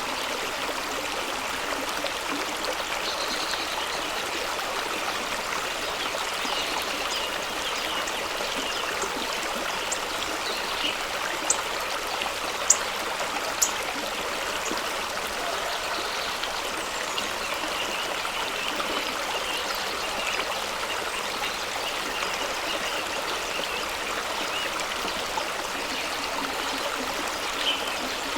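Fast-running stream rushing over rocks: a steady, even splashing rush of water. A few sharp splashes stand out between about 11 and 14 seconds in.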